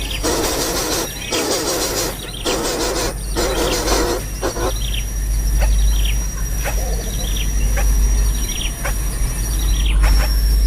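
Small bird calling: short falling chirps repeated roughly once a second through the second half. These come after a stretch of rough hissing noise, over a thin steady high tone and a low rumble.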